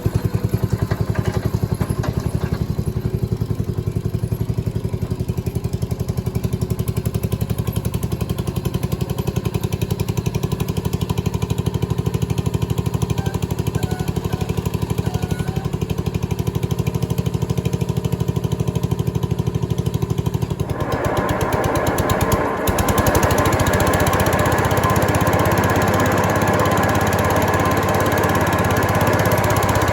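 Garden tractor engine running steadily on a test run with its mower deck fitted. About two-thirds of the way in the sound gets louder and brighter, with a brief dip shortly after.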